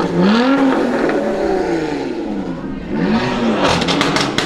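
BMW M5 F10's twin-turbo 4.4-litre V8, breathing through catless downpipes and an M Performance exhaust, revved twice, its pitch climbing and falling each time, then a quick string of pops and crackles on the overrun near the end.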